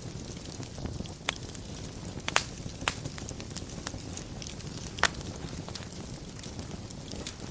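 Wood fire burning in a fireplace: a steady low rumble of the flames with sharp crackles and pops every second or so, the loudest about five seconds in.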